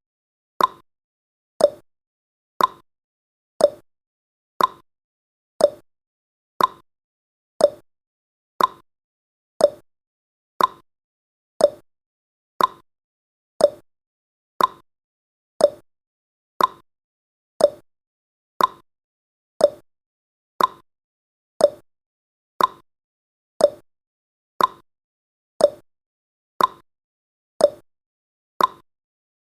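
Clock ticking sound effect marking off the countdown seconds: one short tick every second, alternating between a higher and a lower tick in a tick-tock pattern.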